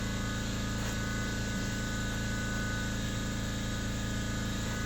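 A steady, low machine hum with no change in pitch or level.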